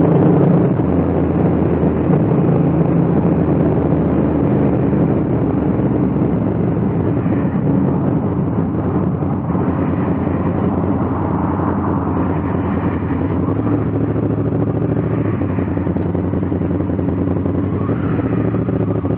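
Honda Africa Twin CRF1000L's 998 cc parallel-twin engine running at low, steady revs as the motorcycle rolls slowly along.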